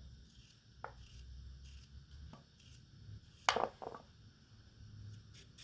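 A few light knocks and clicks, as of things being handled while cooking; the loudest comes as a quick pair about three and a half seconds in, over a low steady hum.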